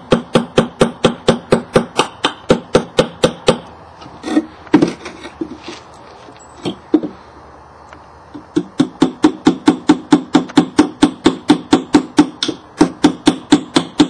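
Hammer driving nails into the side of a birdhouse: two runs of quick, evenly spaced blows, about four a second, with a pause of a few seconds in the middle broken by a few scattered knocks.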